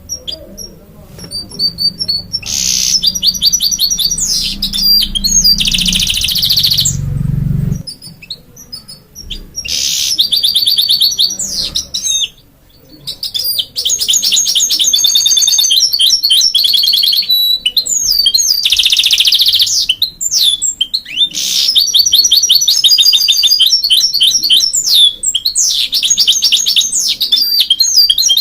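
Goldfinch × canary mule singing a long, loud, varied song of rapid trills and gliding whistles, in phrases broken by short pauses. A low hum under the first several seconds stops abruptly.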